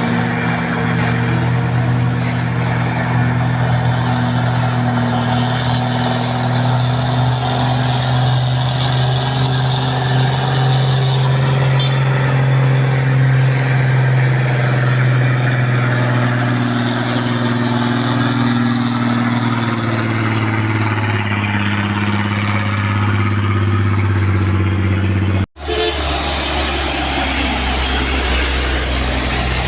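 Truck engine running steadily with a low, even hum and small shifts in pitch; the sound cuts out for an instant near the end, then continues.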